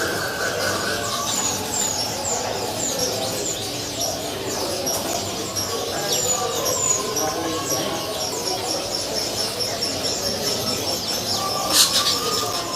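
Many caged songbirds chirping and twittering together over a murmur of people's voices. In the second half one bird repeats a fast run of high notes, and a sharp knock sounds near the end.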